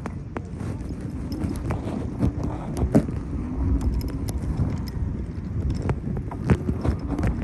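Bicycle clattering and rattling over a rough, sandy trail: irregular knocks and clicks over a low rumble of tyres and wind on the microphone.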